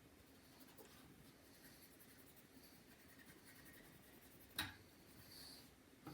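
Faint rubbing of a cotton swab wiping old thermal paste residue off a computer chip, with one sharp click about four and a half seconds in.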